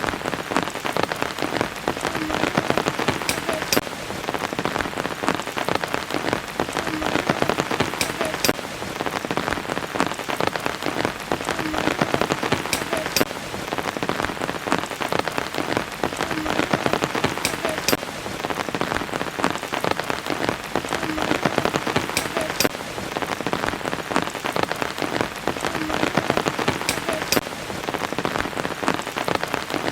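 Steady rain falling on a surface, an even hiss with many single drops ticking sharply through it.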